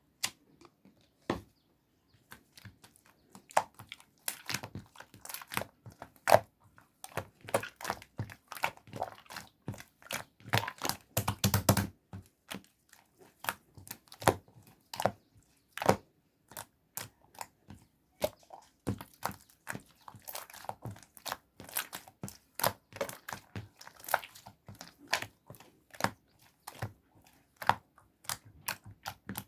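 White clay slime pressed and squished by hand, giving irregular sharp crackling pops and clicks, a sizzling crackle. The crackles bunch into a dense run about a third of the way in.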